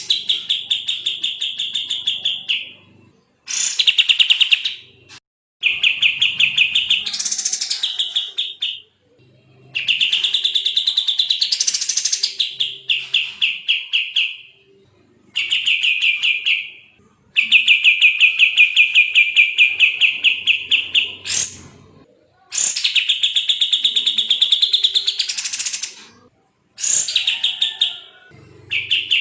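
Kapas tembak bird singing a loud, fast, tightly packed trill of rapid chirping notes, sometimes sweeping up higher. It comes in bouts of a few seconds separated by short pauses, about eight bouts in all.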